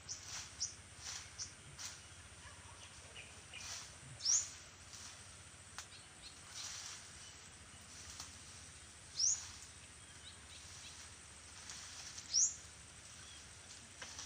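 A bird gives a short, sharp, rising call three times, a few seconds apart, over faint scattered chirps and ticks.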